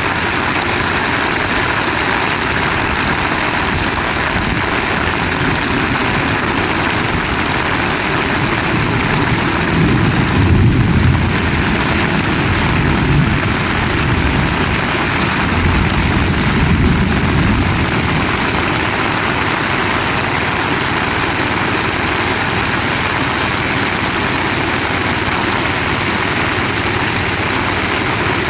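Heavy rain falling steadily, a dense even hiss. A low rumble swells twice, about a third of the way in and again just past halfway.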